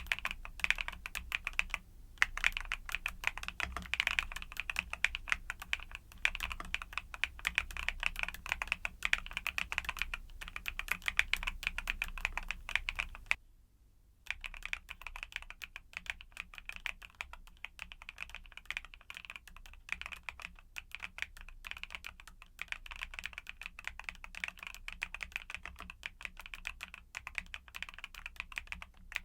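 Fast, continuous typing on a YUNZII mechanical keyboard with Cocoa Cream switches: a dense run of key clicks with a brief pause about halfway through.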